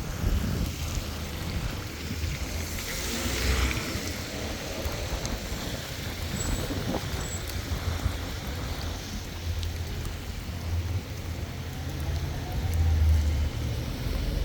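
Car traffic passing on a wet road in the rain, with a steady low rumble under it; one vehicle swishes past about three seconds in, its tyres hissing on the wet surface.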